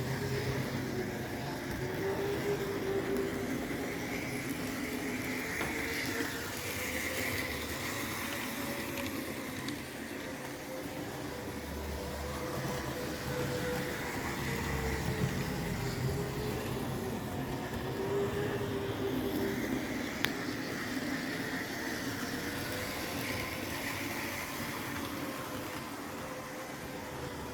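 Model railway train running round the track: the electric motor's whine slowly rises and falls in pitch over the rumble of wheels on the rails, with an occasional click.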